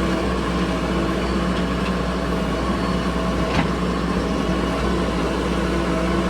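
Heavy diesel engine running steadily with an even hum, with one short tick about halfway through.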